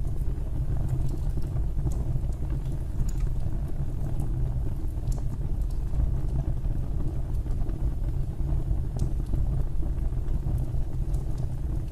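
Wood fire burning in a fireplace: a steady low rumble of the flames, with scattered small crackles and pops.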